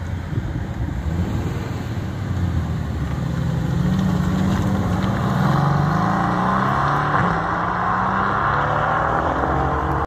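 Mercedes-AMG GT roadster's twin-turbo V8 accelerating hard as it pulls out and drives off, the engine note rising in pitch and growing loudest about six seconds in before fading as it moves away.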